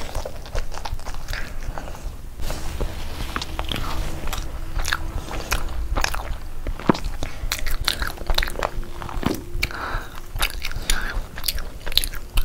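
Close-miked chewing of a big mouthful of chicken biryani, full of wet, sharp mouth clicks and small crunches.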